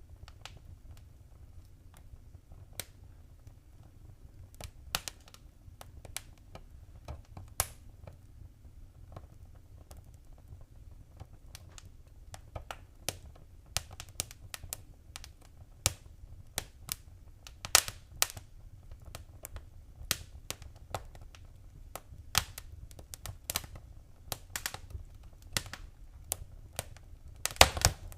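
Wood fire crackling in a fireplace: irregular sharp pops and snaps over a low steady rumble of burning, the pops coming thicker in the second half.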